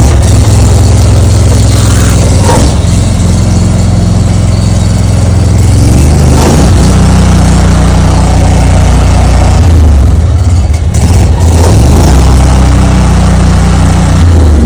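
Honda engine on a trash-bin-cleaning truck running loudly after being started from the control panel. Its speed changes at about six seconds and again around ten to eleven seconds.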